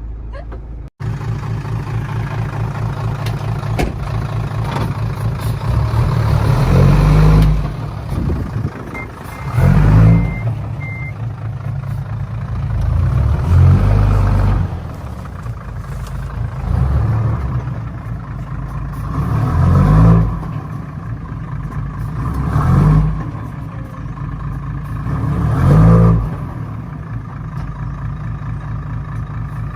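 Truck engine running with a steady low drone, revved up again and again about every three seconds, each rev rising in pitch and then falling back.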